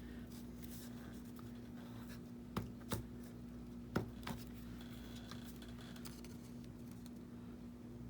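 Paper being handled on a craft table: light rustling and scraping with a few sharp taps around three and four seconds in, over a steady low hum.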